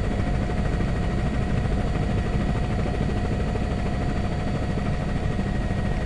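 Steady helicopter noise heard from inside the cabin: a constant low drone of rotor and engine, with faint steady whines above it.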